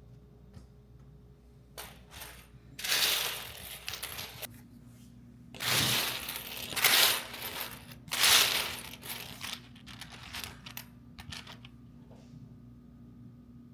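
Household handling sounds: a series of clinks and clatters in several short bursts, the loudest about three, six, seven and eight seconds in, with lighter clicks around them.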